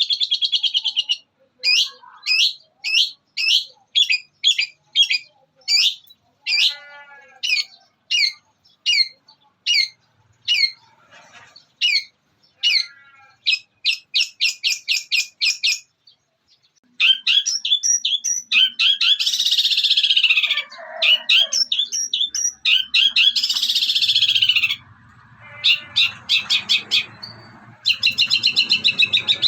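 Long-tailed shrike (cendet) singing a mimicked repertoire. It opens with a long run of sharp high chips, about two a second, then a fast trill. After a short break comes dense, harsh chattering like quarrelling house sparrows.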